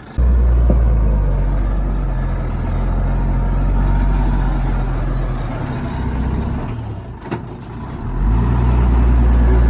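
Heavy diesel engine of earthmoving machinery running hard, with a deep steady note. It comes in suddenly at the start, eases off with a short click about seven seconds in, and builds up again a second later.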